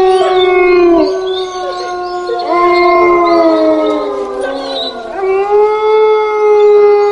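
Wolves howling: long, sustained howls that overlap, with one voice sliding down in pitch in the middle and a fresh howl rising in about five seconds in.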